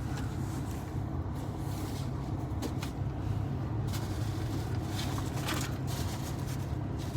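Steady low rumble of an idling vehicle engine, with a few faint clicks and rustles over it.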